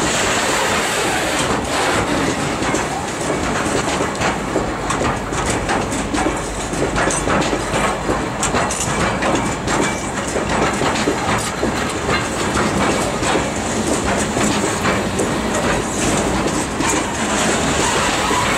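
Freight train of open coal gondola wagons rolling past close by: a steady rail rumble with wheels clicking and knocking over the rail joints.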